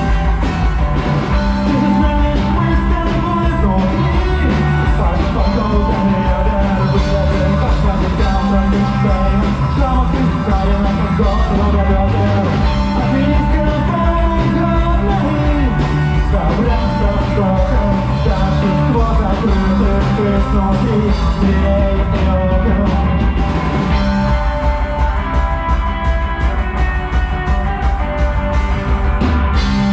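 Rock band playing live, loud and continuous, with a steady drum beat under bass and sustained instrument lines.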